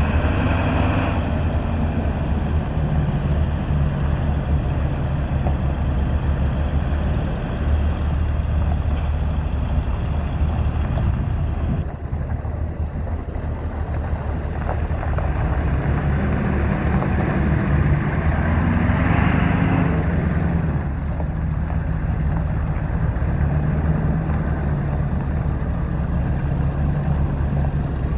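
1999 Ford F-350 pickup's V8 engine running steadily at idle, swelling louder for a moment about two-thirds of the way through.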